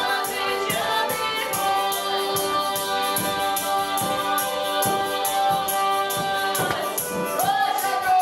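Mordovian folk ensemble performing a traditional polyphonic piece: several voices hold sustained notes in harmony over a steady percussion beat, with a sliding note near the end.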